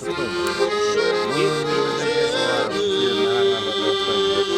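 Accordion music: held notes and chords, one note sustained steadily through the second half.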